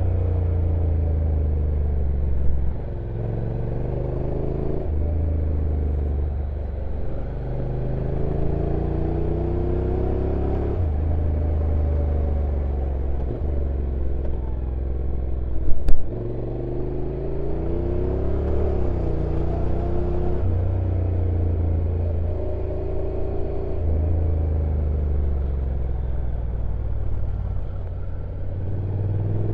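Honda NC750X's parallel-twin engine running under way downhill, its pitch rising and falling with several abrupt steps as the DCT gearbox shifts gears. A sharp knock about halfway through.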